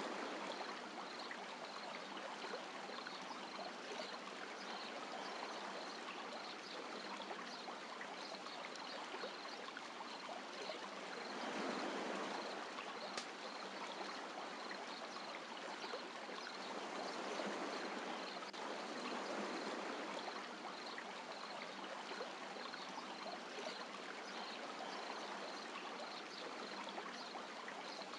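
Gentle sea waves washing on a beach: a continuous wash of water that swells a little louder about twelve seconds in and again around eighteen to twenty seconds in.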